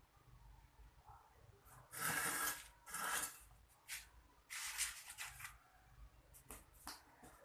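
A few short rustling, rubbing noises, the longest about half a second, with fainter clicks near the end.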